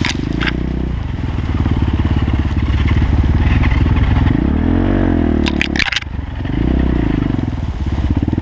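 Irbis TTR 250's single-cylinder four-stroke engine running steadily. The revs briefly rise and fall about five seconds in, followed by a few sharp knocks.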